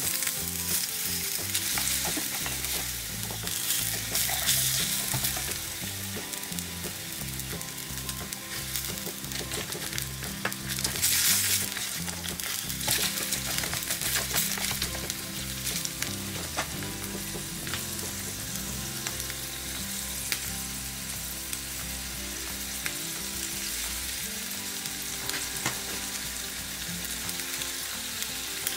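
Chopped onion and shrimp frying in a tiny stainless steel pan on a miniature burner, stirred with chopsticks: a steady sizzle that flares louder a few times, most strongly about eleven seconds in.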